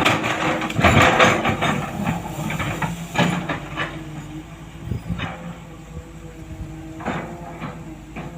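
Bulk cement tanker truck running with a steady hum, broken by short bursts of hissing and clanking about every one to two seconds, loudest in the first second and a half.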